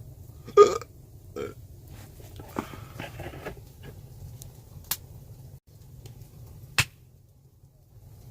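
A man's loud burp, with a smaller one just after it. Later come two sharp single cracks, from the wood of a campfire.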